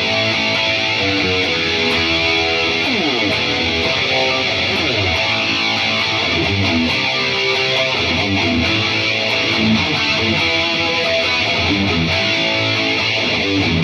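Electric guitar played through an Atomic AmpliFire amp-modeler pedal and heard through a cheap pair of computer speakers: continuous single-note noodling and runs, with a few quick sliding passages.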